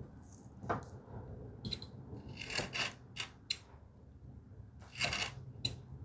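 Hand tools working on cherry wood: a series of short, light scrapes and clicks at irregular intervals, with a denser cluster about five seconds in.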